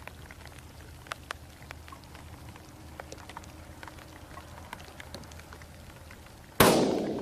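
Heavy rain pattering, with many small scattered drop ticks. About six and a half seconds in comes a single sudden, very loud rifle shot from a custom Savage 12FV in 6mm Creedmoor, dying away over the last half second.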